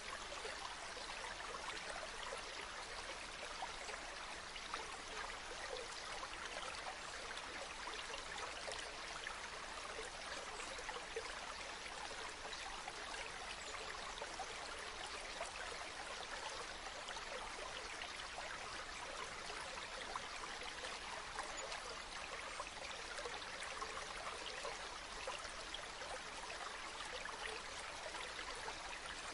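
Running water from a river or waterfall: a steady, unbroken rush of flowing and splashing water.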